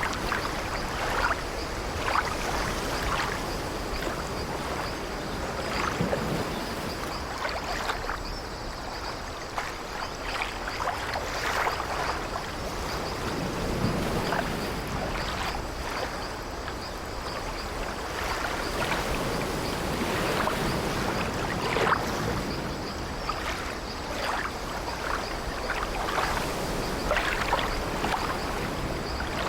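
Sea waves washing steadily against an old wooden ship, with short creaks of the ship's timbers every second or two.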